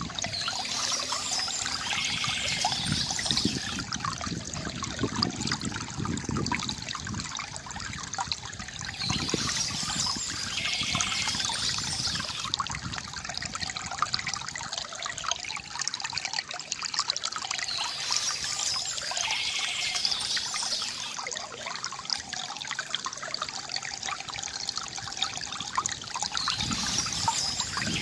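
Water trickling and gurgling from a bamboo fountain, steady throughout, with birds chirping in short spells that come back about every eight or nine seconds.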